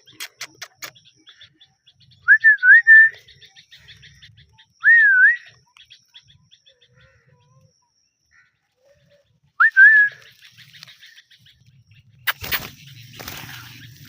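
Ringneck parrot whistling short rising-and-falling notes in three separate phrases, with a run of quick clicks at the start. Near the end there is a loud knock followed by rustling.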